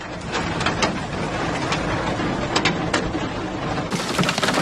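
Steady rushing noise of floodwater in a street, with scattered sharp knocks. Near the end it cuts to the hiss of heavy rain.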